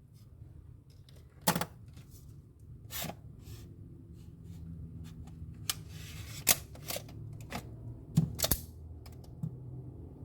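Irregular sharp clicks and knocks with a brief scraping rustle about six seconds in, from hands and tools handling parts of a refrigerator.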